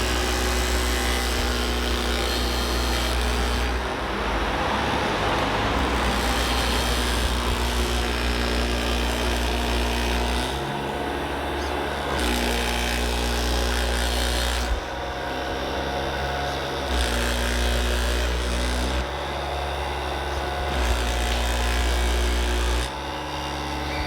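Electric motors and hydraulic pumps of RC model construction machines running, a steady hum that shifts in pitch and loudness every couple of seconds as different functions are worked.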